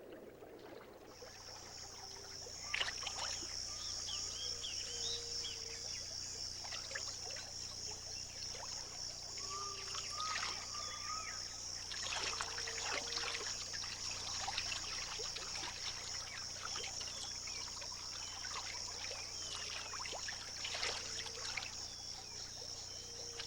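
Wetland ambience: a steady high-pitched insect drone starts about a second in, with scattered short chirping calls and water trickling and splashing.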